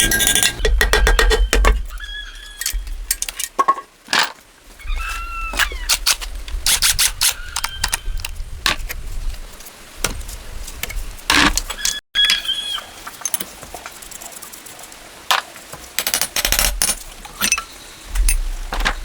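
Metal tools and engine parts clinking and knocking as they are handled, in irregular clusters of sharp clicks, with a short chirping call heard now and then.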